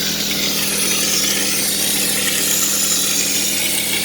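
A power tool or machine running steadily: a constant motor hum under a loud, even hiss.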